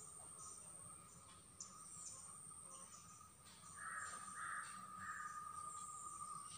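A bird gives three short calls in quick succession, about four seconds in, over a steady high-pitched insect drone and faint scattered chirping.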